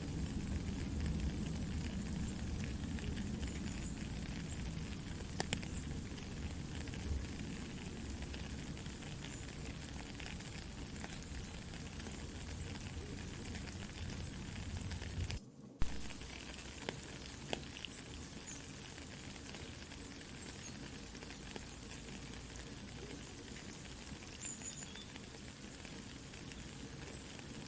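Soft rain pattering steadily, mixed with a campfire crackling, with scattered small pops and snaps. The sound cuts out for a moment about halfway through, followed by one sharp pop.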